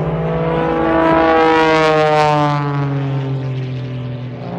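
Propeller-driven airplane flying past, its loud engine drone sliding down in pitch as it goes by. Near the end the drone rises in pitch and grows louder again.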